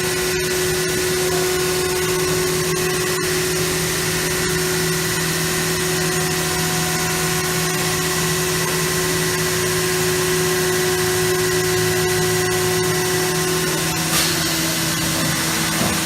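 CNC router spindle running steadily with a constant whine. Near the end its pitch drops slightly, with a brief sharp click.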